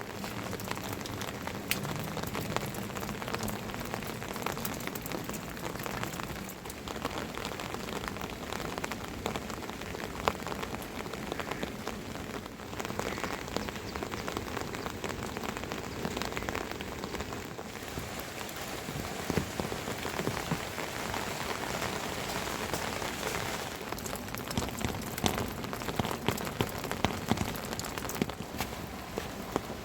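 Steady rain falling and pattering on surfaces, with many sharp drips and drop hits scattered through, more of them near the end.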